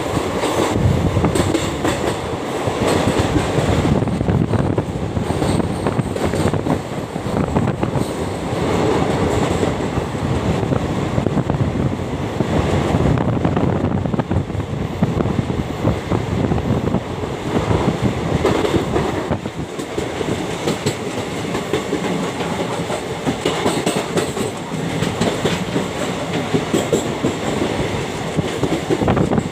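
A train running on the ghat line, its wheels clattering steadily over the rail joints.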